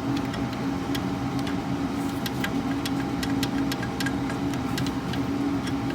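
Chevrolet Suburban V8 idling with a repeated ticking from the valvetrain, the sign of a failed DOD lifter on one cylinder that is also causing a misfire.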